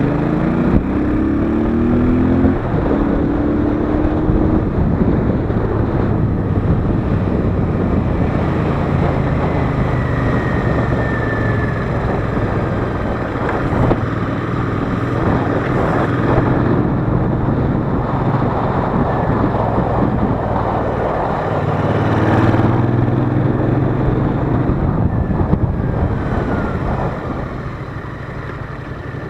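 Royal Enfield Interceptor 650's parallel-twin engine and exhaust on the move. It rises in pitch as it accelerates over the first few seconds and again about two-thirds in, with wind and road rush between, and it quietens near the end.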